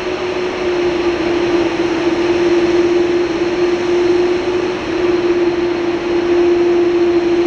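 Airbus A330-300 airliner running on the ground during pushback: a steady droning tone over an even jet rush, with no change in pitch.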